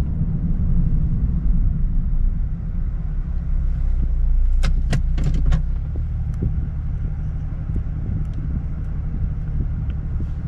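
Nissan 370Z Nismo's naturally aspirated V6 running with a steady low drone, with a quick cluster of sharp clicks about halfway through.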